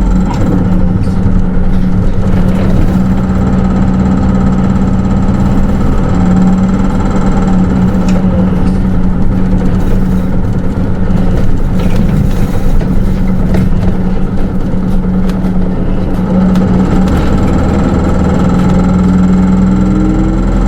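Interior sound of a Hino Rainbow II (SDG-KR290J1) city bus. The diesel engine runs with a steady low hum, and a few light clicks and rattles from the body come through.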